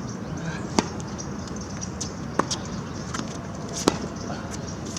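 Tennis ball struck by rackets in a baseline rally: three sharp hits about a second and a half apart, with softer ball bounces between them.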